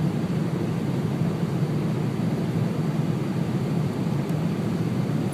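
Steady roar of a jet airliner's cabin on final approach, engines and rushing airflow with the landing gear down and locked.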